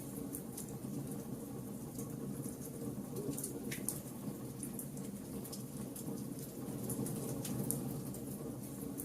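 Wood fire burning: a steady low rush of flames with scattered sharp crackles and pops of burning wood, one a little louder about four seconds in.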